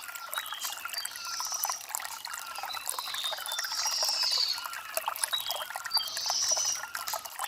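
Shallow stream trickling and splashing over river stones, with birds chirping high above it three times.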